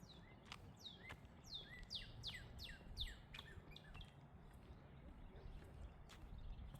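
A songbird sings a quick series of about ten down-slurred whistled notes, each falling sharply in pitch, for about three seconds before trailing off. Faint sharp ticks and low outdoor background noise lie underneath.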